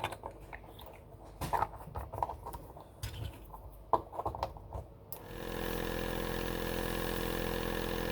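A few light clicks and handling knocks, then about five seconds in a small electric motor starts and runs with a steady even hum.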